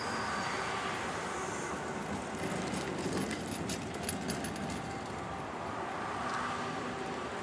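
Passenger train rolling past along the platform at low speed, its wheels and running gear making a steady rumble, with a few faint clicks about halfway through.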